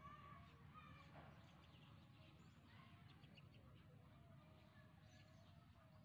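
Faint bird calls and chirps, scattered and brief, over a low steady rumble of background noise.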